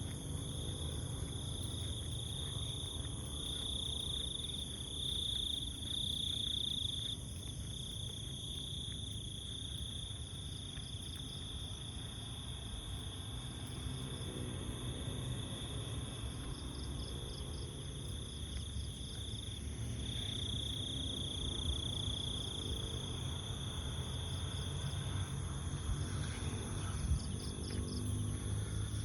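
Jungle insect chorus of crickets and other insects: several steady high-pitched trills sounding together, the strongest swelling louder for a few seconds twice. Short runs of rapid pulsed chirps come in now and then, over a low rumble.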